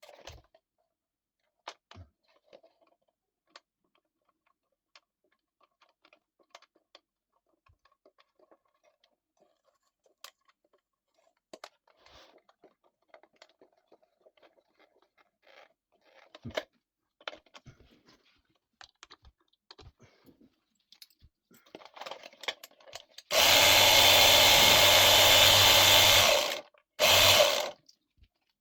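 Small clicks and rattles of parts being handled, then a small 110-volt Klutch air compressor motor starts and runs with a loud steady buzz for about three seconds. It stops, then runs again for under a second near the end, showing the rewired compressor now works.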